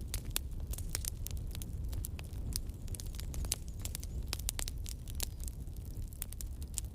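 Wood logs burning in a fireplace, crackling with many sharp irregular pops over a steady low rumble of the fire.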